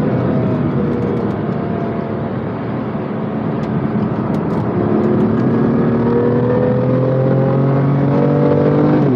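BMW M2 Competition's twin-turbo straight-six heard from inside the cabin at speed, over heavy road and tyre noise. The engine note sinks at first, then climbs steadily under acceleration and drops sharply near the end at an upshift.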